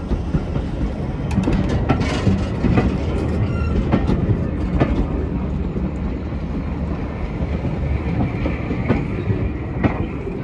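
Railway passenger coaches rolling slowly past, a steady low rumble with irregular wheel clicks over rail joints.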